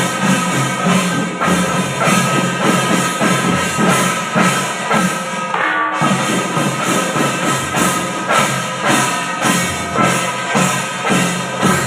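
Loud percussion-driven music with drums keeping a steady beat, broken by a brief pause about six seconds in.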